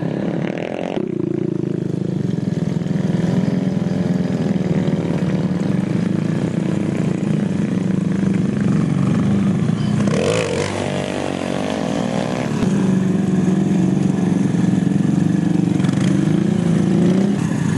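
Small pit bike engines running steadily. About ten seconds in, one engine's pitch sweeps up and down for a couple of seconds.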